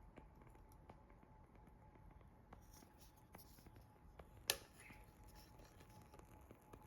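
Faint crackling of a small fire: scattered soft pops, with one sharp, louder pop about four and a half seconds in.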